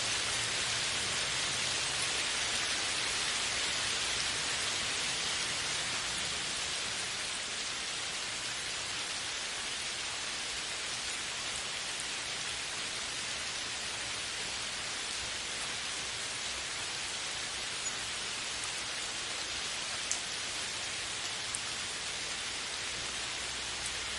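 Steady rain falling, a dense even hiss of drops on a surface, easing slightly after the first few seconds, with a few single drop ticks near the end.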